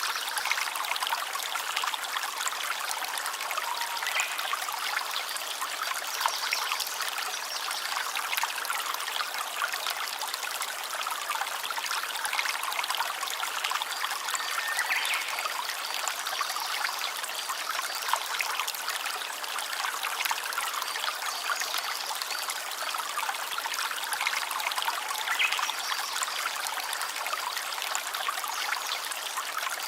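Stream water trickling and babbling steadily, a light, splashy flow with no deep rumble.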